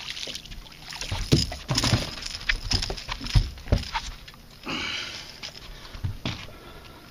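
Irregular knocks and thumps against a small fishing boat, loudest in the first four seconds, with a short splash of water about five seconds in, as a hooked bass is worked free of the bottom grass.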